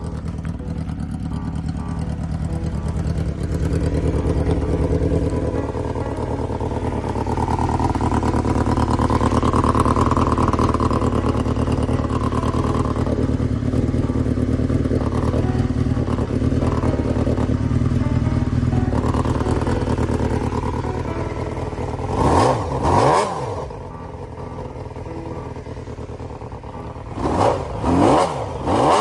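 Honda Jade 250 inline-four motorcycle engine running steadily, then blipped sharply a couple of times about three-quarters through and several times in quick succession near the end, the revs rising and falling with each blip.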